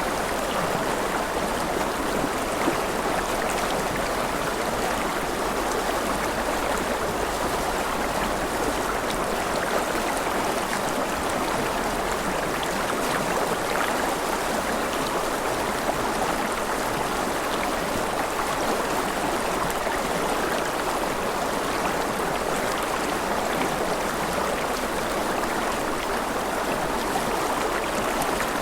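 Steady, even rush of water with no breaks or changes in level.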